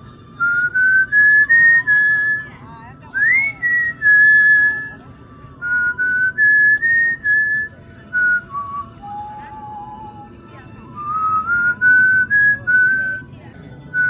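A person whistling a tune: clear held notes stepping up and down in pitch, in several short phrases with brief pauses between them.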